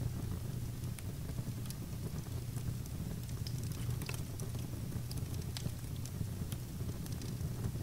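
Fire burning in a fireplace, crackling: a steady low rumble with scattered sharp pops at irregular intervals.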